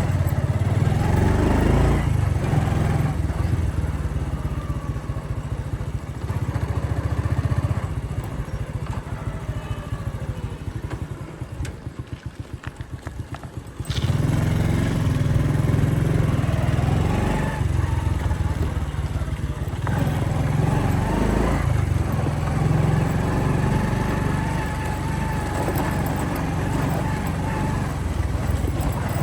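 Motorcycle engine running while riding, with wind and road noise. Around the middle it drops to a slow, even putter for a few seconds, then picks up and runs louder again.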